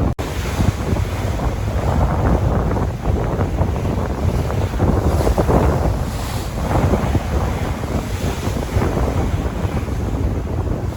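Sea waves washing in, with strong wind buffeting the microphone and a low rumble; the noise swells and eases every few seconds. There is a brief dropout just after the start.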